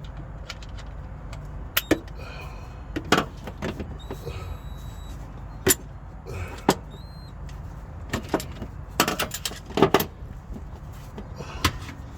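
Scattered sharp clicks and knocks, about a dozen at uneven intervals with a tight cluster a little past the middle, as gear-shifter and console parts are handled and fitted back together. A steady low hum runs underneath.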